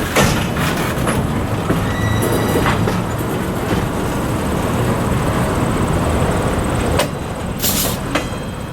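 Freight train cars rolling slowly over badly maintained jointed track. The wheels keep up a steady rumble, with clanks and knocks at the rail joints and a few short, high wheel squeals.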